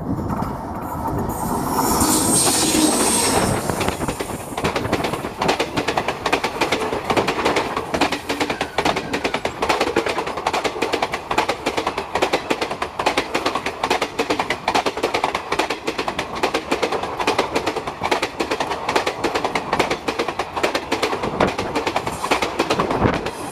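Express passenger train hauled by an electric locomotive passing close by at speed. The locomotive rushes past in the first few seconds, then the rake of coaches follows with a fast, continuous clickety-clack of wheels over the rail joints, easing off near the end.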